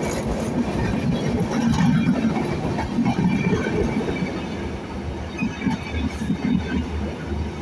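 Passenger express train running along the track: a steady rumble of wheels on rail with scattered clacks.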